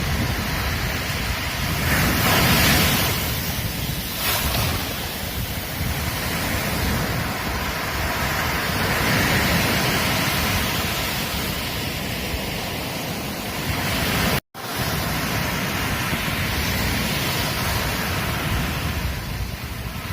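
Ocean surf breaking on a beach: a continuous rush of water that swells louder every several seconds as waves break, with a split-second gap of silence about fourteen seconds in.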